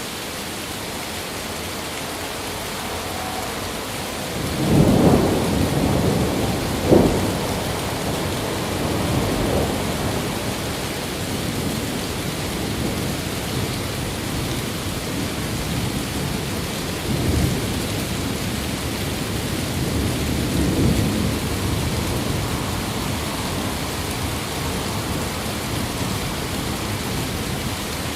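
Steady rain with rolling thunder: a rumble builds about four seconds in, peaks in a sharp crack a couple of seconds later, and two weaker rumbles roll through later on.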